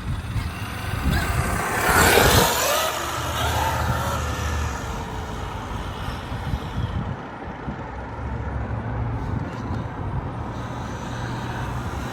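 Traxxas XRT Ultimate electric RC monster truck driving, its motor and drivetrain whining up and down in pitch, loudest as it speeds up about two seconds in.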